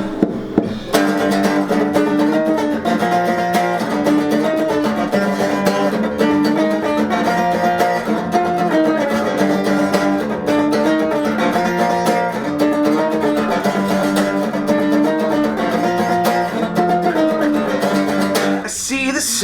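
Guitar riff played over and over as the instrumental opening of a rock band's original song, the music filling out about a second in.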